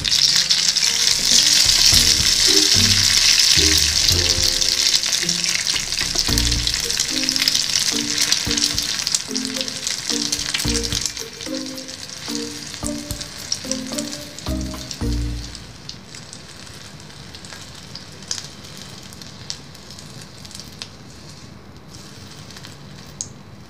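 Beaten egg frying in hot oil in a small aluminium wok: the oil sizzles loudly at first, then dies down to a faint crackle over the second half. Background music with a light melody plays over the first half.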